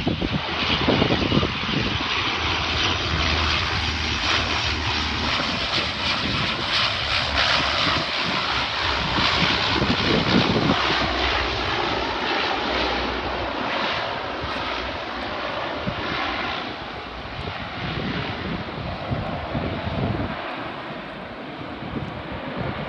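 An airliner's engines roar as the plane passes on the runway. The sound is loudest around the middle and eases off toward the end, with low wind rumble on the microphone.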